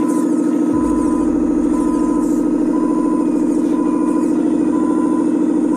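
Truck engine running at a steady, loud drone, with a reversing alarm beeping about once a second.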